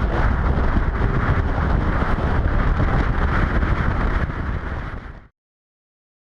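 Loud wind rush buffeting the microphone on a moving motorcycle, with road and vehicle noise underneath. It cuts off suddenly a little over five seconds in, leaving silence.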